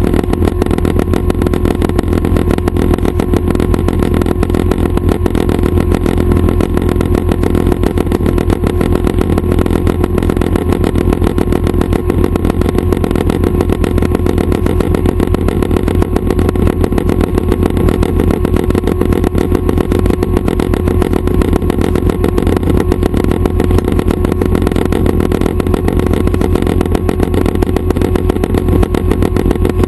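Schweizer 269 light helicopter's piston engine and rotor running steadily: a loud, fast, even beat over a constant drone, with no change in pitch.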